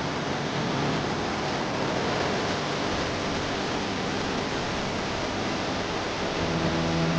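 Waterfall pouring: a steady, unbroken rush of falling water. A low steady hum comes in near the end.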